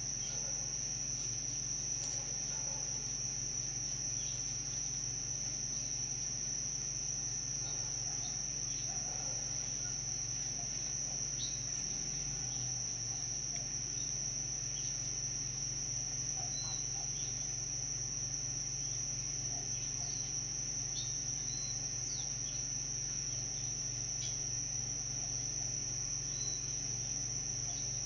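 A steady, unbroken chorus of crickets: a continuous high-pitched trill, with a low steady hum underneath and a few faint short chirps.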